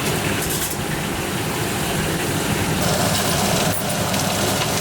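Steady roar of a commercial kitchen at work, such as gas burners and the exhaust hood running, with a few light clatters.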